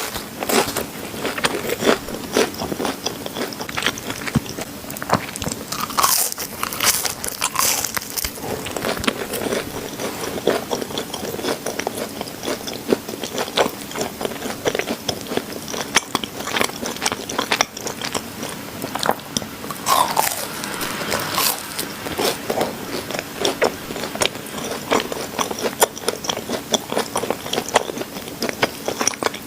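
Close-miked eating sounds: biting into and chewing cream-filled chocolate donuts, a continuous run of many small, irregular wet mouth clicks and crunches.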